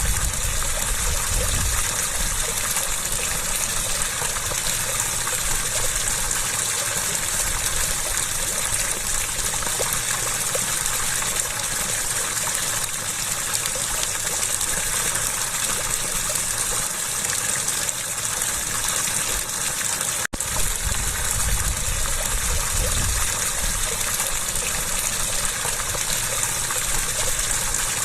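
Water gushing and splashing in a steady, dense rush, broken by a split-second gap about twenty seconds in.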